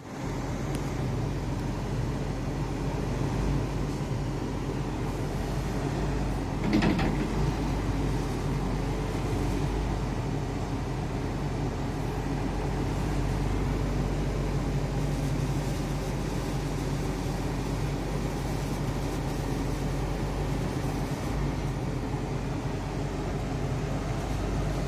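Heavy diesel engine running steadily at an even pitch, with a brief higher-pitched sound about seven seconds in.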